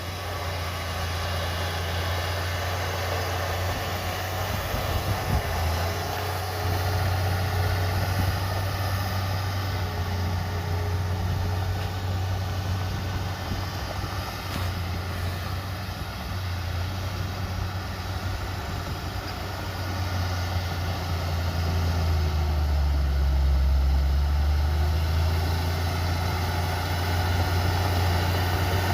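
Heavy diesel engine of earthmoving machinery running steadily with a deep low hum, growing louder for a few seconds about three-quarters of the way through.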